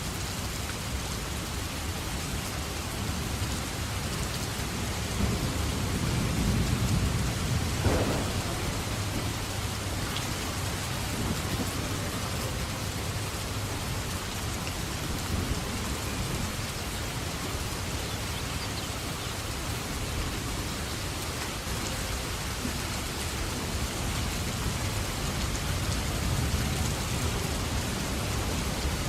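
Steady heavy rain with thunder. A low rumble builds about five seconds in and peaks in a sharper crack around eight seconds in; a fainter rumble comes near the end.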